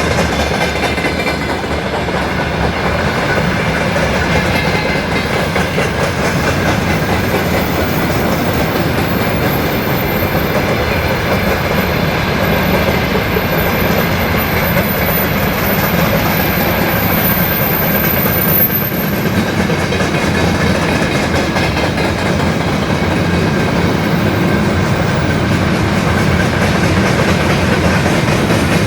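Freight train rolling past, its wagon wheels clattering steadily over the rail joints.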